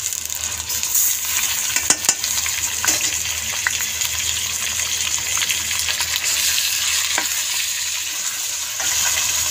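Raw beef mince sizzling in hot oil with browned onion slices in a steel karahi, a steady frying hiss, with a wooden spoon scraping and clicking against the pan as it is stirred.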